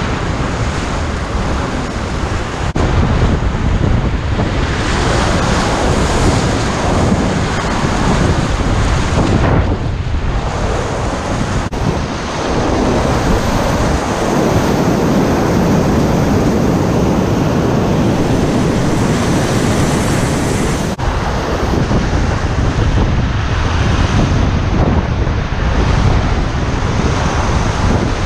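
Loud, continuous rush of river whitewater, with wind buffeting the microphone.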